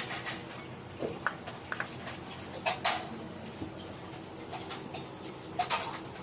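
A few scattered clinks and taps of a utensil against a bowl while yogurt is mixed into tandoori roti dough, the loudest pair about three seconds in and another cluster near the end.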